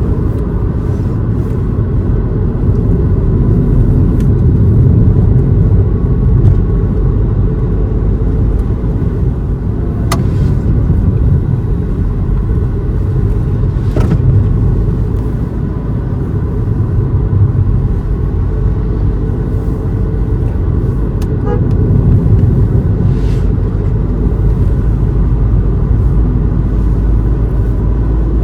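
A car driving, with a steady low rumble of engine and road noise and a couple of faint ticks partway through.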